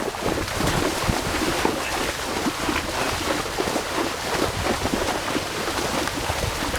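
Horses wading through a shallow river, their legs splashing the water in a continuous irregular run of splashes.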